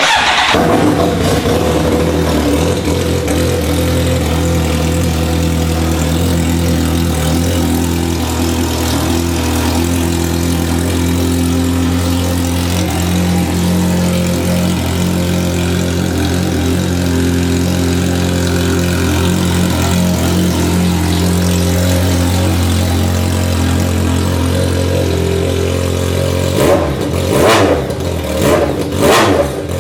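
BMW K1200S inline-four motorcycle engine fired up and idling with no exhaust silencer fitted. It starts suddenly, runs at a steady loud idle, then takes about four quick throttle blips near the end.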